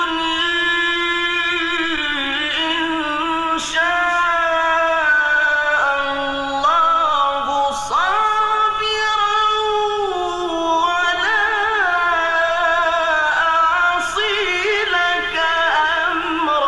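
A man reciting the Quran in the melodic mujawwad style: long held notes, richly ornamented, rising and falling in drawn-out phrases with brief pauses for breath between them.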